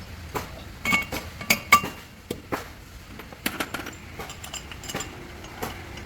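Metal pieces clinking and knocking together in a string of sharp, irregular clicks. The loudest come between about one and two seconds in, with a brief metallic ring.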